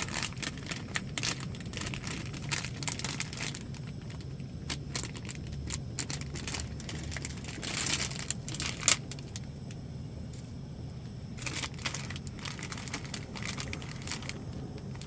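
Plastic food packaging being handled, crinkling and torn open, with scattered small clicks and knocks and a longer rip about eight seconds in. A steady low hum runs underneath.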